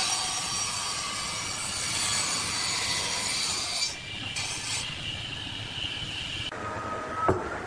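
A power tool cutting wood, a steady hissing cut that stops abruptly about six and a half seconds in, followed by a single sharp knock near the end.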